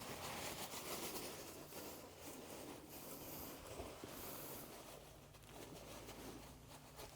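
Faint scraping, rubbing and rustling of hands working on parts, with a few small clicks.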